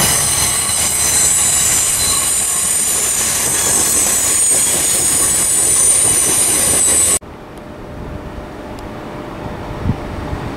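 Northern electric multiple-unit train running past, its wheels squealing with several steady high-pitched tones over the rumble of the cars. About seven seconds in the sound drops suddenly to a much quieter rumble of a train in the distance.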